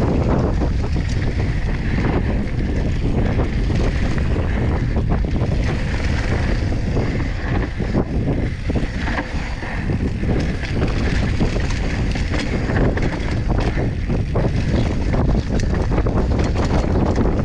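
Strong wind buffeting the microphone with a steady rumble, broken by frequent small knocks and rattles.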